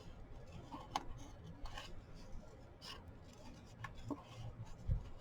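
Scissors snipping paper in a few separate short cuts, with one low thump near the end.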